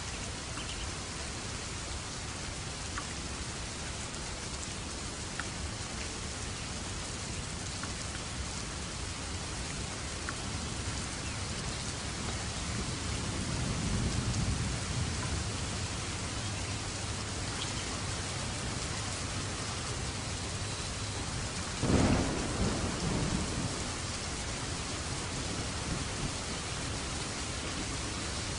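Steady rain with thunder. A low roll of thunder swells about halfway through, and a sharp thunderclap about three quarters of the way in rumbles away over the next couple of seconds.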